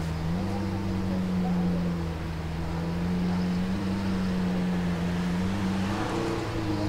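Lamborghini Aventador Hamann Nervudo Roadster's V12 engine idling steadily, its pitch stepping up a little just after the start and dropping back about a second before the end.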